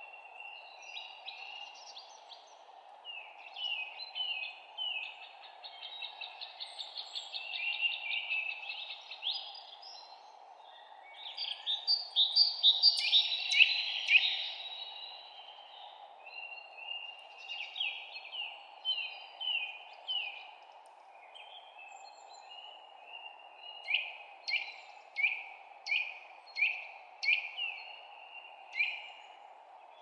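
Songbirds singing in a forest, several overlapping songs of quick high chirps and trills, loudest in a dense burst about halfway through. Near the end one bird gives a run of separate sharp falling notes, about one and a half a second. A steady low hush lies underneath.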